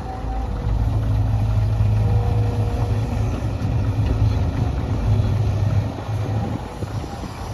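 Heavy construction machine's diesel engine running with a low, steady drone. It grows louder about a second in, as if working under load, and eases off again near the end.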